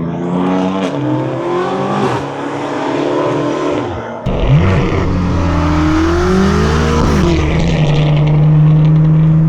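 Straight-piped BMW exhaust accelerating: the engine note climbs in pitch and drops back at each gear change, with a sharp break about four seconds in. It then holds a steady, loud drone near the end.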